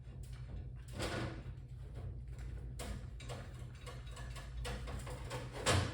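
Small metal parts being handled: scattered clicks, clinks and scrapes of metal on metal, the loudest about a second in and again near the end, over a steady low hum.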